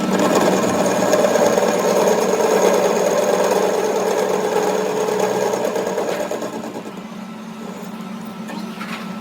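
A workshop machine running with a fast, even mechanical buzz that eases off after about six seconds.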